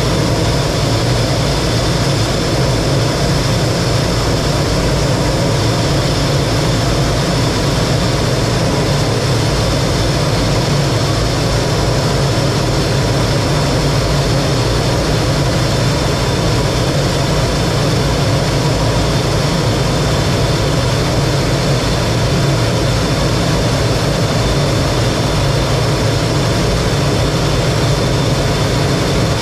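T-33 jet trainer's turbojet engine running steadily in flight: a constant low rumble with a faint steady high whine over it.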